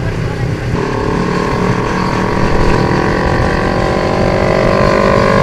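Motorcycle engine running under throttle. About a second in its note firms up, and then it climbs slowly and steadily in pitch as the bike accelerates.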